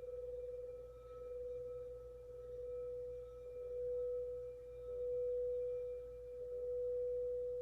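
Quartz crystal singing bowl ringing with one sustained pure tone that swells and fades in slow waves.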